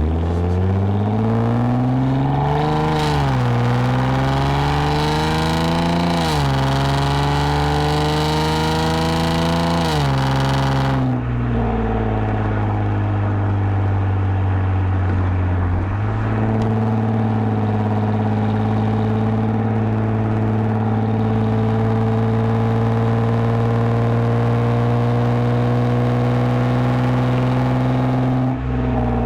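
2010 Lexus IS250 AWD's V6 through a full aftermarket exhaust with valved mufflers, accelerating through the gears: the engine note climbs and falls back at three upshifts in the first eleven seconds or so. It then settles into a steady cruise, its pitch creeping slowly upward.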